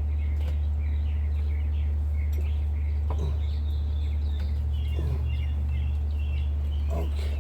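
Small birds chirping over a steady low hum.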